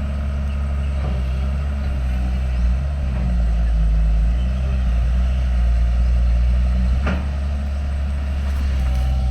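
Heavy diesel engine of earthmoving machinery running steadily under load, with a couple of short knocks, one about a second in and another later on.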